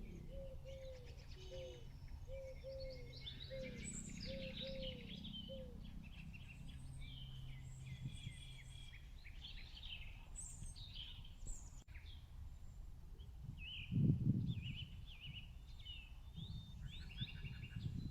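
Several birds chirping and twittering, with one bird repeating a short falling call about twice a second during the first six seconds. A low steady hum runs under the first half, and a brief low rumble comes about fourteen seconds in.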